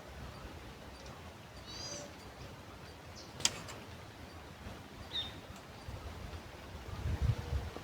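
Wild birds chirping a few short times over a steady outdoor hiss, with one sharp click about three and a half seconds in and low wind rumble on the microphone near the end.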